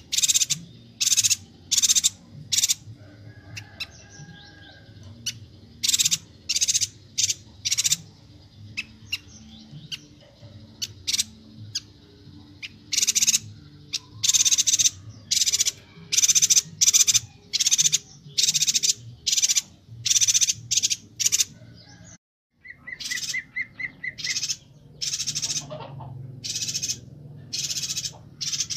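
Yuhina calling: a long run of short, sharp, high chirps, loud and in quick clusters. There is a brief gap about 22 seconds in, followed by a short, quick lower trill.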